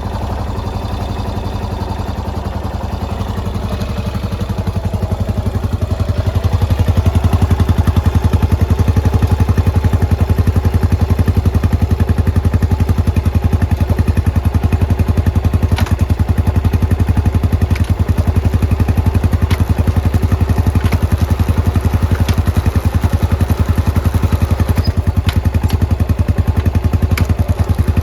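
Yamaha SR400's air-cooled single-cylinder four-stroke engine running at idle with an even, rapid beat of exhaust pulses. It grows louder over the first six or seven seconds, then holds steady.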